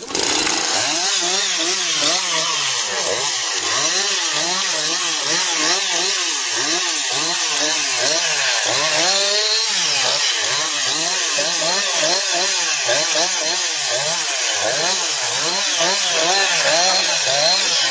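Chainsaw delimbing, its engine pitch rising and falling over and over as the saw is throttled up and cuts through one branch after another.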